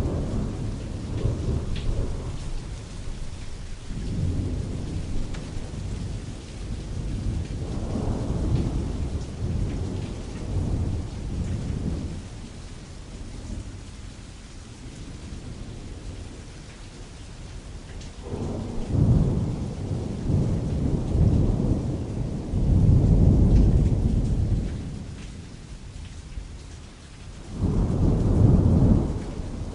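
Rain falling on canvas with rolling thunder: a steady patter under deep rumbles that swell and fade several times, the strongest about two-thirds of the way through and again just before the end.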